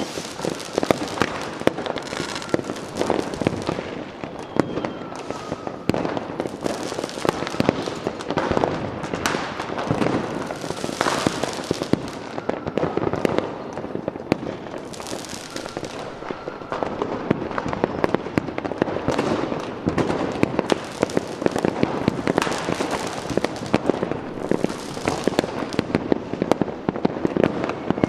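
Fireworks going off continuously: dense crackling and popping from many shells at once, with rushes of hiss swelling and fading every few seconds and a few faint whistles.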